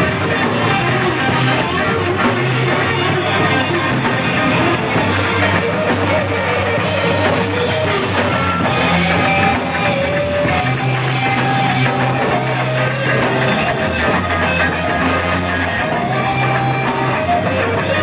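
Blues-rock band music with electric guitar, bass and drum kit, played at a steady loud level.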